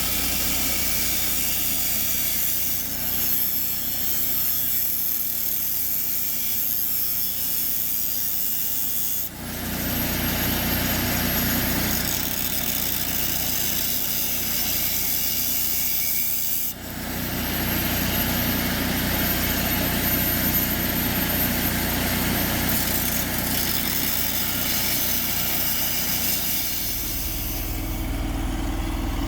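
A power tool running steadily on metal in three stretches. After each break a high whine rises and then holds, as the tool spins back up.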